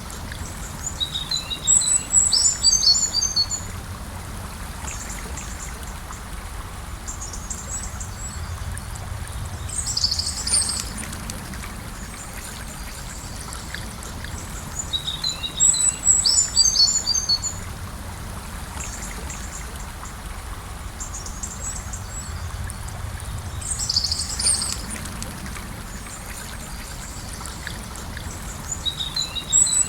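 A river flowing gently and steadily, with a songbird singing a short phrase of quick high notes three times, about every fourteen seconds. Shorter bird calls come in between.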